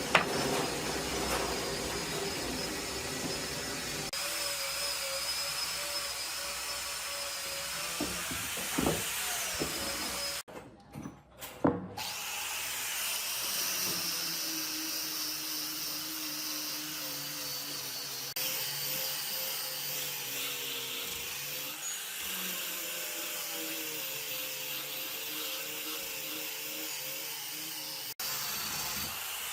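A power tool running on wood, in several stretches that change suddenly; it stops briefly about a third of the way in, with a few knocks.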